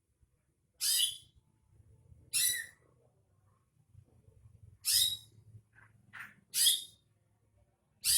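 Greater green leafbird (cucak ijo) giving short, bright, high calls, about five in eight seconds with a couple of fainter ones between, over a faint low hum.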